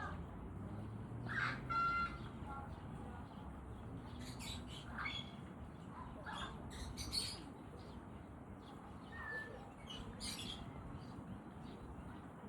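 African grey parrot making a scattering of short chirps and squeaks, with a brief whistled note about two seconds in and another near the end.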